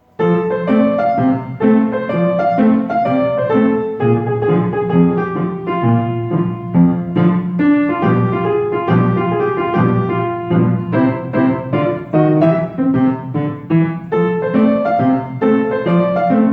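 Solo piano music: a flowing melody of quick notes over a steady low accompaniment, beginning right at the start.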